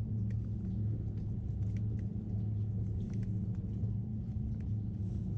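A steady low motor hum, with scattered light clicks over it.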